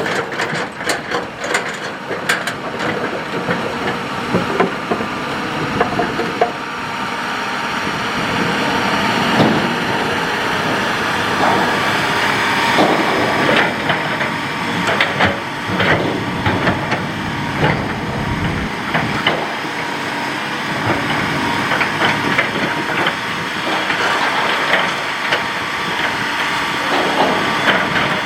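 Hitachi hydraulic excavator running while it digs and dumps sand-and-gravel fill, with stones clattering and scraping against the bucket in many short knocks over the steady machine noise.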